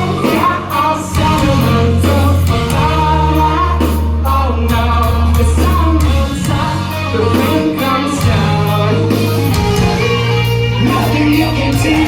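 A live rock band playing loud, with a singing voice over electric guitar, long held bass notes and drums.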